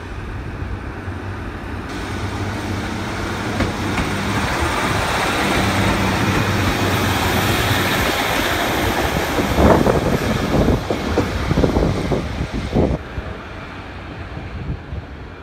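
Diesel multiple unit passing close along a station platform: its engine and rolling noise build up as it approaches, then a quick run of clicks as its wheels cross rail joints. Near the end the train noise drops away, leaving wind on the microphone.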